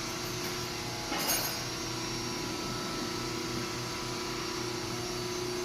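Steady machine hum of workshop equipment, with a single sharp metallic clink about a second in.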